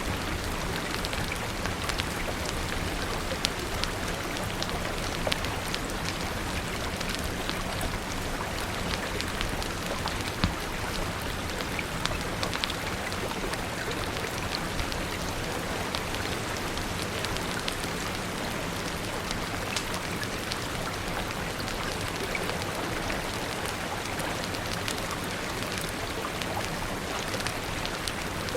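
Steady rain pouring, with a wood fire crackling: scattered sharp pops and ticks over the even hiss of the rain.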